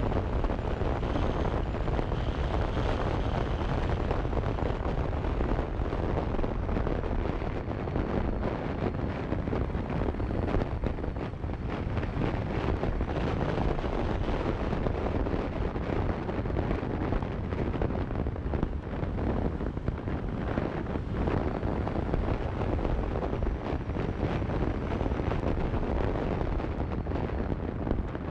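Steady rush of wind buffeting a GoPro Hero4 Silver's microphone on a moving motorcycle, heaviest in the low end, with the motorcycle's engine running beneath it.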